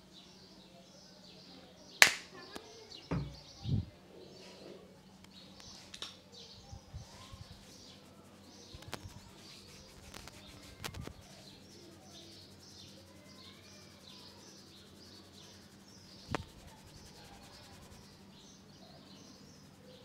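Small birds chirping steadily in the background, with a sharp click about two seconds in, two dull thumps just after, and a few fainter clicks later on.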